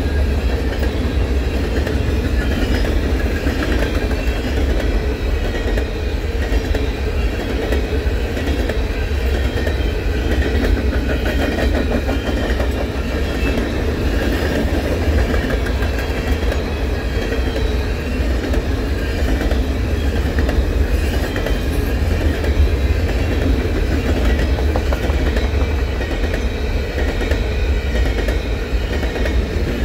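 Covered hopper cars of a Canadian Pacific grain train rolling past: a steady low rumble with continuous rapid clatter of steel wheels on the rails.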